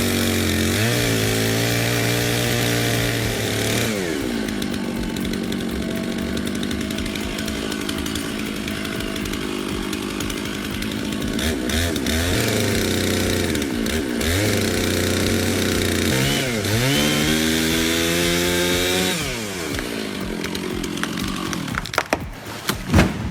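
Chainsaw engine revving up and down several times as it saws wood, running steadily between the revs, with a few sharp knocks near the end.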